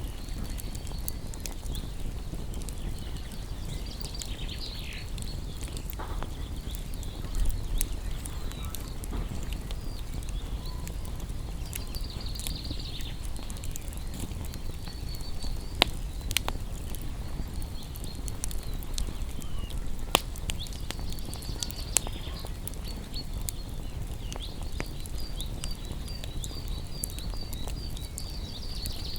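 Wood fire crackling, with a steady low rumble of burning and scattered sharp pops and snaps, a few of them louder. Faint high chirping runs in the background, in a quick series near the end.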